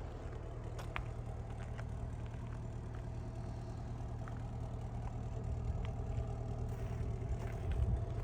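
The Camaro SS's V8 idling steadily, a low rumble that swells slightly near the end, with a few faint ticks.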